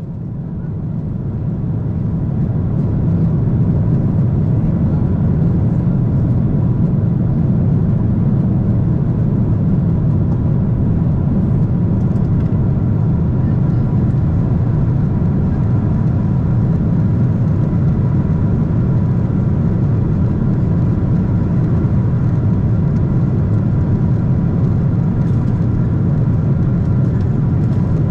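Steady cabin noise inside a Boeing 777-300ER: the deep, even rumble of airflow and its GE90 engines, with a faint steady whine above it. It swells up over the first few seconds, then holds steady.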